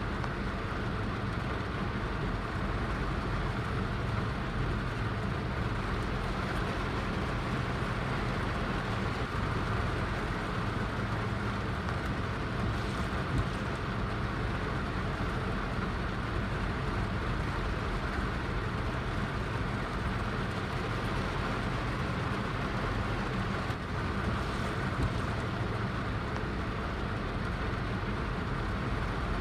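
Heavy rain falling steadily, an even unbroken hiss and rumble.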